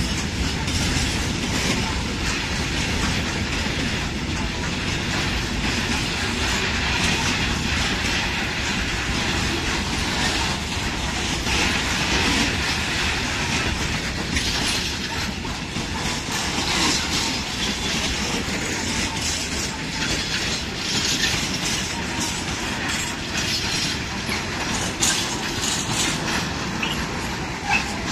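A train moving through the station: a steady rolling rumble of wheels on rails, with repeated clicks as the wheels pass over rail joints.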